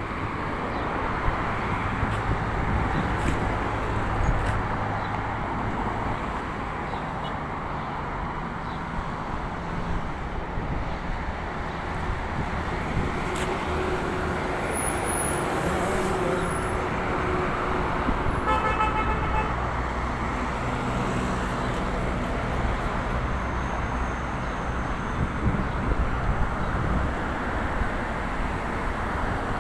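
Road traffic noise: vehicle engines running and passing steadily, with a brief car horn toot about two-thirds of the way through.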